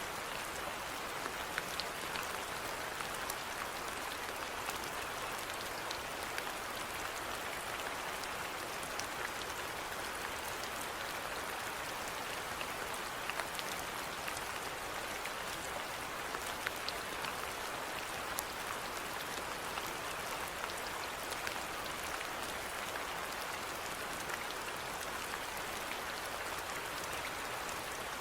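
Steady rainfall with many individual drops pattering on a surface, an even hiss dotted with small clicks.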